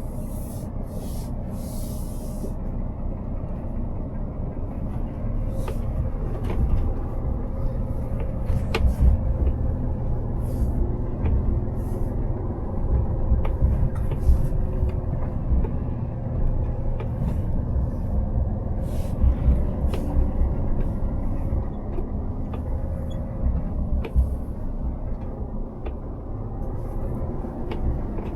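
Heavy truck running, a steady low diesel and road rumble with scattered small clicks and rattles.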